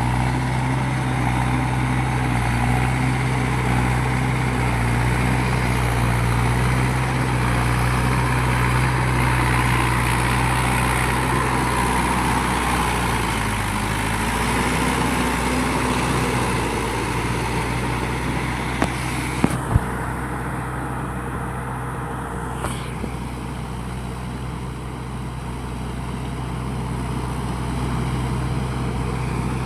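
Mahindra 585 tractor's diesel engine running steadily; about halfway through its speed dips briefly and then picks up again. A few sharp clicks about two-thirds of the way in.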